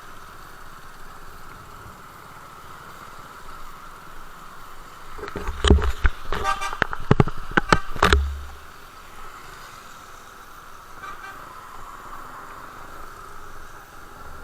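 Steady motor-vehicle road noise, with a loud cluster of knocks and low rumbles about five to eight seconds in.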